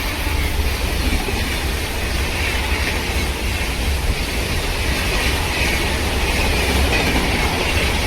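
Train running past close by: a steady, loud rumble of wheels on the rails with a high, hissing rail noise above it.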